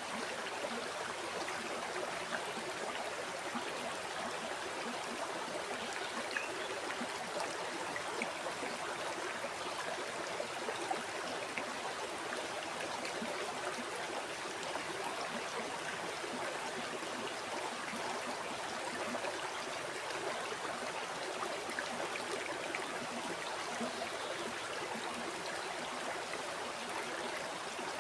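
River or stream water flowing steadily over stones, a constant rushing with fine splashes and gurgles.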